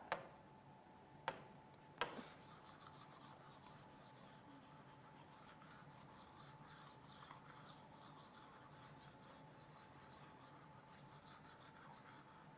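Faint scratching of a pen writing, after two sharp clicks at about one and two seconds in.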